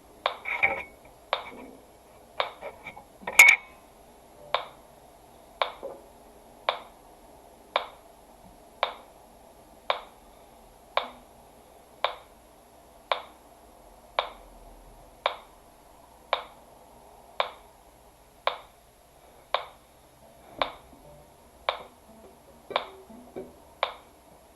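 Metronome ticking steadily at about one tick a second, one tick sharper and louder than the rest a few seconds in.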